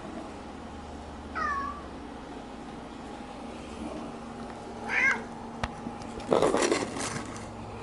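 Domestic cat meowing twice, short falling meows about a second and a half in and again about five seconds in. A sharp click follows, then a brief louder scuffling noise near the end.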